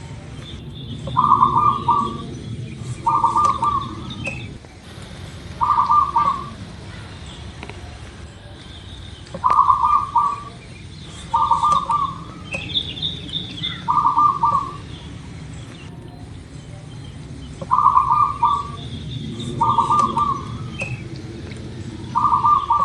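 Zebra dove (local perkutut) cooing: nine short, quickly pulsed coo phrases, repeated every two to four seconds. Faint high chirps from other small birds run underneath.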